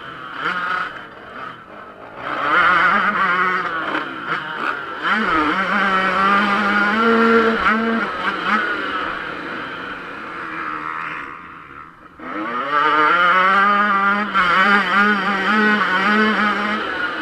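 Yamaha YZ125 two-stroke motocross engine run hard, its pitch rising and falling with throttle and gear changes. About eleven seconds in it drops off the throttle briefly, then revs back up with a rising pitch.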